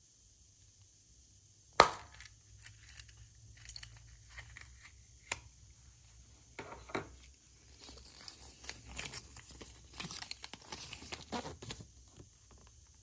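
Hands unwrapping toy packaging: a sharp knock about two seconds in, then scattered clicks and a longer spell of crinkling and tearing of wrapping near the end.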